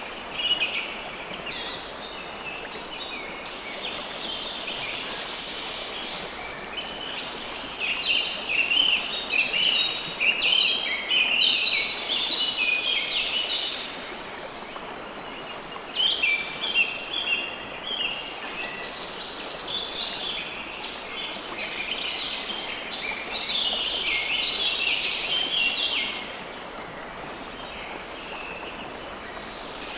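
River water flowing steadily under a chorus of small birds chirping. The chirping comes in busy spells through the middle of the stretch and thins out near the end, leaving mostly the water.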